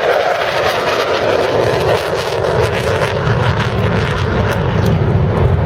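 Loud, steady jet noise from an F-18 Hornet's twin jet engines as it makes a pass.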